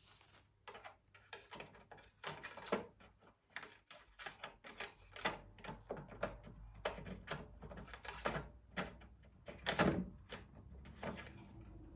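Irregular clicks, knocks and scrapes of hands and tools working on an old lawn mower, with a louder knock about ten seconds in.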